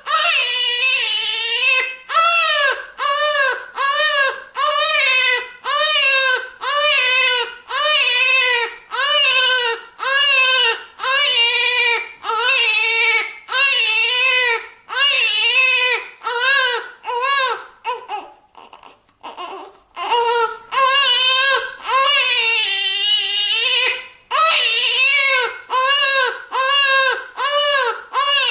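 Newborn baby crying hard in a run of short, repeated wails about one a second, each rising and falling in pitch. The cries break off briefly into faint whimpers about two-thirds of the way through, then resume with a longer wail.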